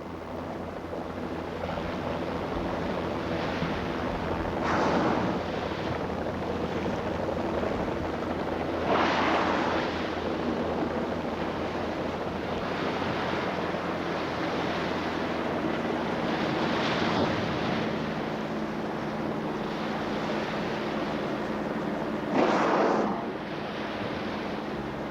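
Open-sea waves washing, with wind, over a steady low hum; four louder surges of wash come and go through the stretch.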